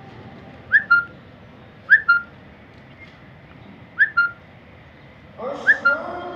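A bird repeating a short two-note call four times: a quick rising whistle followed at once by a brief held note.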